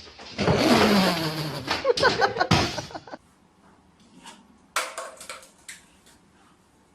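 A loud, rattling clatter of several quick knocks lasting about three seconds, then a few light knocks near the end.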